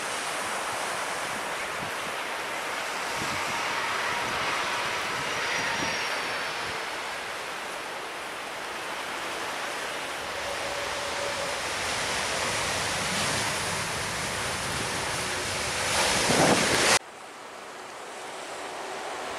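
Surf and wind rushing steadily on the microphone, with a faint high whine falling in pitch a few seconds in. The sound swells briefly and then cuts off abruptly near the end.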